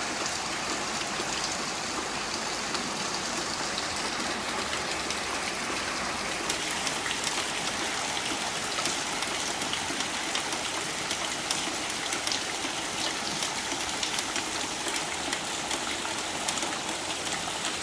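Rain falling on a tin roof: a steady hiss with many sharp single-drop ticks on the metal, growing denser and brighter about six seconds in.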